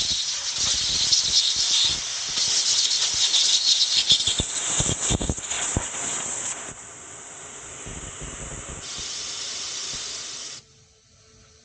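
Compressed air hissing through a motorcycle tire's open valve stem to clear the sealant out of it. The hiss is loud, weakens about two-thirds of the way through, swells again, then cuts off abruptly near the end.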